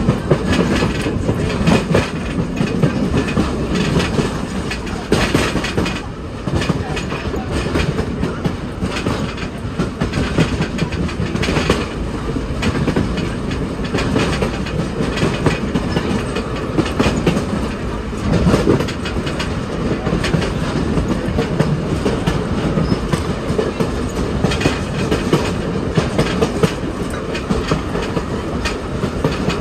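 Passenger cars of a steam-hauled excursion train rolling along the track, heard from the rear of the train: a steady loud rumble with frequent clacks of the wheels over the rails.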